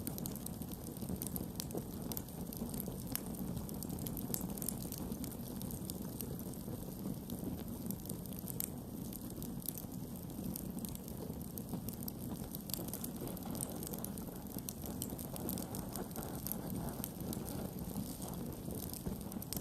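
Wood campfire burning, with frequent small sharp crackles and pops over a steady low rumble of the flames.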